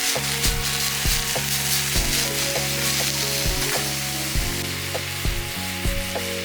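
Salmon and vegetables sizzling in butter in a 20 cm iron frying pan over a campfire, a steady crackling hiss. Background music with held low notes plays under it.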